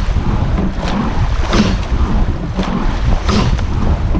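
Racing rowing shell under way: the crew's oars at race pace, with two sharp swishing strokes about every second and three quarters, over a steady rumble of wind and water.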